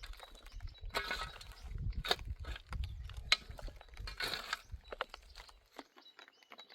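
A series of sharp clattering impacts, about one a second, over a low rumble that stops near the end.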